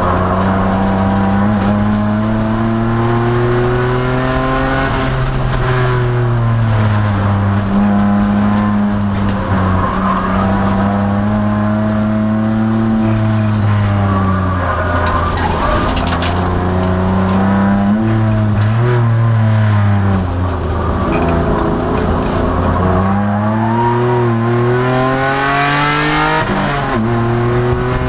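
2002 Nissan Maxima's 3.5-litre V6 under race load, its pitch climbing under acceleration and falling away for braking and corners several times over, with road and tyre noise underneath.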